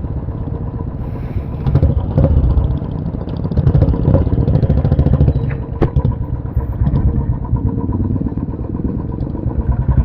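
Royal Enfield motorcycle engine running with a rapid low thump, swelling louder several times as the throttle opens and eases, with a sharp click a little past the middle.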